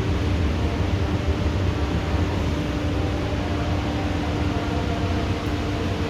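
Heavy rain of a thunderstorm falling steadily, an even hiss, with a steady low rumble and a faint hum underneath.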